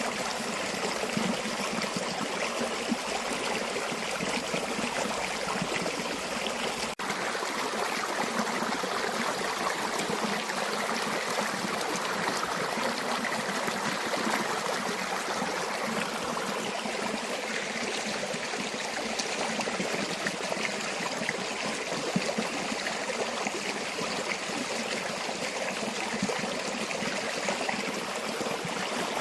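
River water flowing steadily over rocks, a continuous rushing and trickling, broken by a momentary dropout about seven seconds in.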